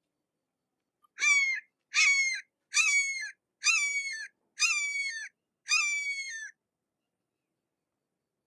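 Red-shouldered hawk calling: a series of six screaming calls, about one a second, each dropping in pitch at its end.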